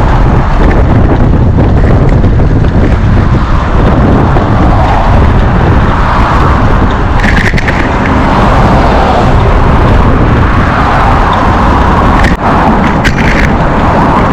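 Loud, steady wind buffeting on the microphone while riding a bicycle, a dense rumbling rush, with a couple of sharp knocks near the end.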